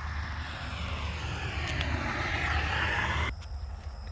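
A car driving on the road, with a steady low hum and road noise swelling over a few seconds. The sound cuts off abruptly about three seconds in.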